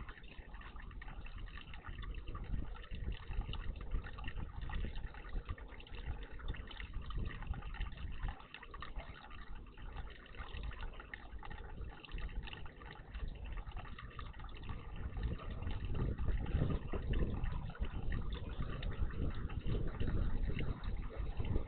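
Water splashing and trickling in a garden bird bath, a steady, uneven wash that grows louder near the end.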